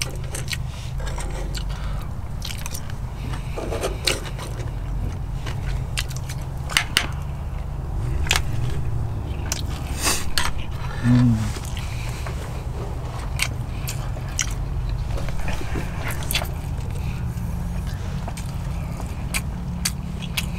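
A person eating: chewing and biting close by, with scattered sharp clicks of a fork against a plastic food container, over a steady low rumble.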